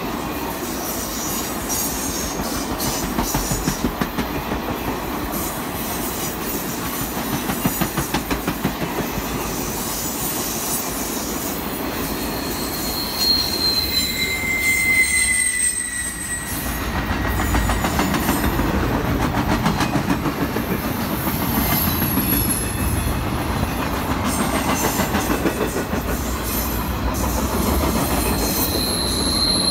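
Circus train cars rolling past at trackside: steady rumble of steel wheels on rail with a rhythmic clickety-clack. Brief high-pitched wheel squeals come near the middle and again at the end.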